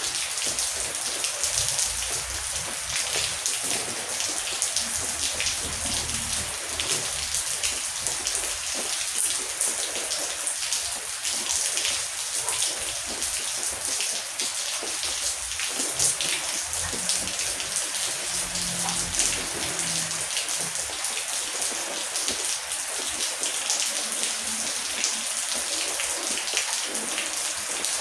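Heavy rain falling steadily: a dense, even hiss with many individual drops striking close by.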